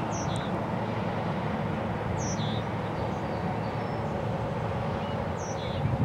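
Steady low rumble of a freight train moving along the tracks. Over it a bird sings the same short, falling chirping phrase three times.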